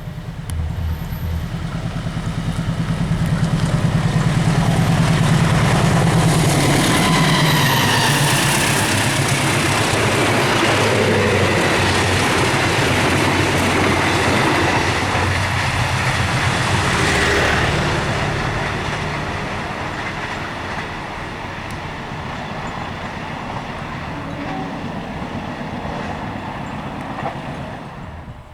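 A long train passing by: a low engine rumble builds, stays loud for about a dozen seconds with the rolling noise of the cars, then fades away as the train moves off.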